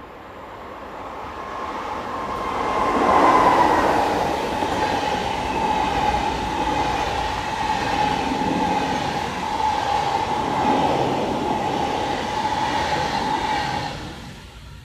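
SBB Re 460 electric locomotive hauling a long train of IC 2000 double-deck coaches past without stopping. The noise builds and is loudest as the locomotive passes about three seconds in, where a steady whine drops slightly in pitch. The whine and the coaches' rumble carry on steadily, then fade near the end as the train clears.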